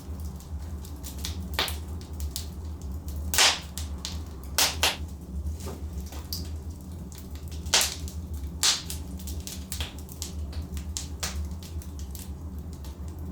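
Logs burning in a fireplace, crackling: irregular sharp pops and snaps over a steady low rumble of the fire, with a handful of louder pops in the middle stretch.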